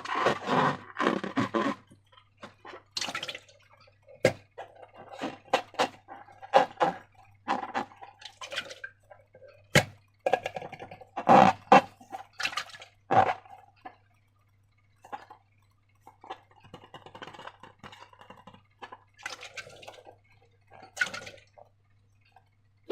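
Slime being worked by hand: irregular wet, sticky clicks and squelches in short runs with pauses, and a few sharp snaps at about four, ten and thirteen seconds in.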